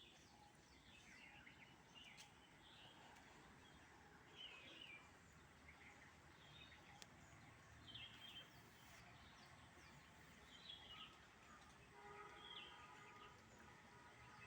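Faint outdoor ambience with short bird chirps scattered every second or so. About twelve seconds in, a faint steady tone with several even pitches joins in for a couple of seconds.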